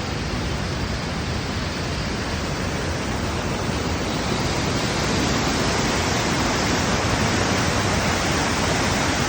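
Waterfall: a steady rush of falling water, a little louder from about halfway through.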